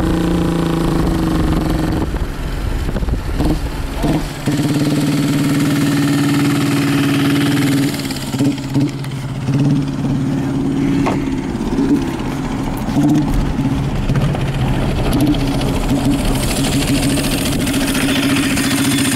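Diesel engine of a home-built motorcycle running steadily, its pitch shifting a few times, with some uneven knocks and changes in the second half.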